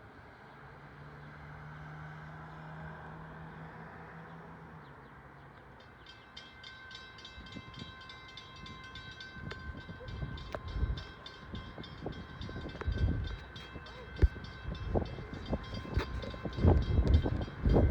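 An NJ Transit train at the station: a low steady tone for the first few seconds, then from about six seconds in a ringing at several pitches that repeats quickly and evenly. Wind buffets the microphone in gusts that grow louder through the second half.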